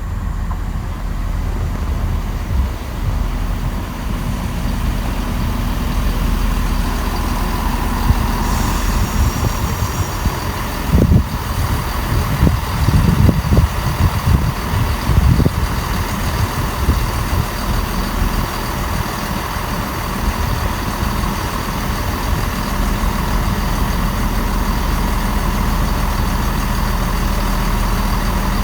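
Diesel train engine idling steadily, a low rumble, with a short hiss about a third of the way in and a few low thumps about halfway through.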